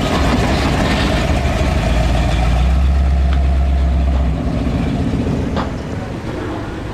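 A motor vehicle's engine running close by with a deep, steady drone that drops away about four seconds in.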